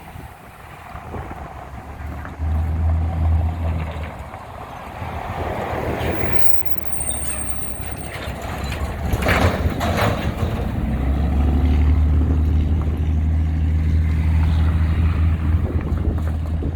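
Deep, steady diesel engine rumble, first heard for about a second and a half and then again for the last several seconds, with road vehicles swishing past in between.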